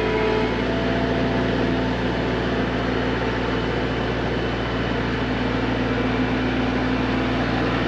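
Skid steer's diesel engine running steadily with an even hum.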